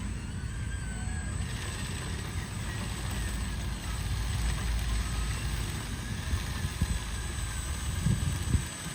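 Low, uneven rumble with the faint whine of RC truck electric motors, and a couple of short knocks near the end.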